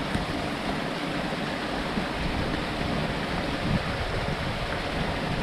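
Running water of a small stream, a steady even rushing.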